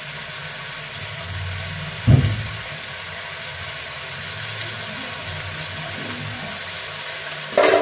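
Diced vegetables sizzling steadily in oil in an iron kadai, over a low hum. There is one dull thump about two seconds in and a short sharp clatter near the end.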